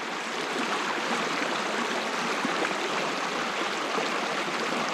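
Shallow, riffly rainforest stream running over rocks: a steady, even rush of water.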